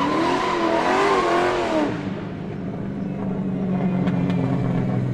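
2022 Subaru WRX's turbocharged flat-four revving through an aftermarket cat-back exhaust, its pitch rising and falling, then settling to a steady idle about two seconds in.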